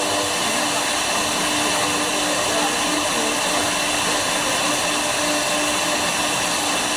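Woodworking CNC router's spindle running steadily while cutting wood, a constant whine with a hiss of cutting and several fixed high tones.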